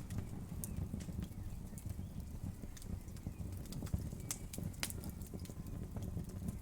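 Wood fire crackling: a steady low rumble of flames with scattered sharp pops and snaps of burning wood, the sharpest a few about four to five seconds in.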